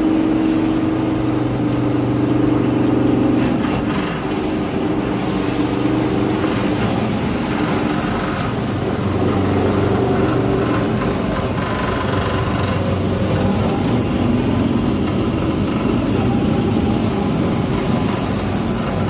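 Electric-motor grass and beet chopper running, with a steady motor hum under a rough grinding noise; the hum shifts in pitch a few times.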